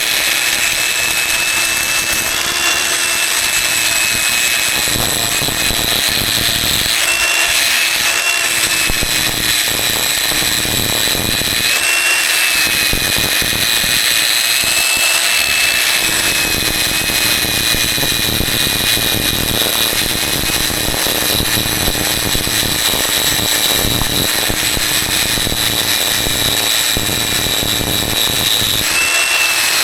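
A handheld electric power tool runs steadily with a high whine, its pitch wavering slightly several times as it takes load.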